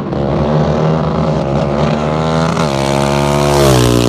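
ATV engines running hard at high revs, then dropping in pitch from about two and a half seconds in as the throttle comes off.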